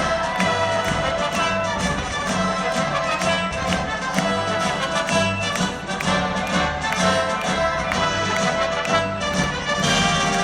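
Live orchestral music with prominent brass, punctuated by frequent sharp hits.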